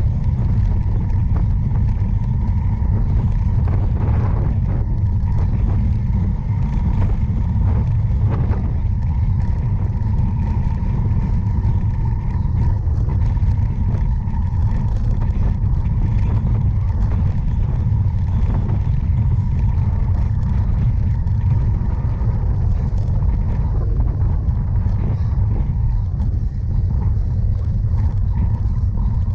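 Wind rumbling over a ride-along camera's microphone on a cyclocross bike at race pace: a steady, loud low rumble with faint ticks and rattles over it.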